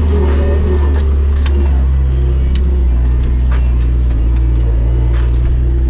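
Bobcat S205 skid steer loader's diesel engine running steadily under work, its note shifting about two seconds in, with a few light clicks and knocks over it.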